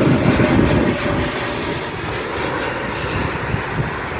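Jet engines of a Frontier Airbus A321neo airliner running as it passes, a broad rumbling hiss that eases off about a second in and then holds steady.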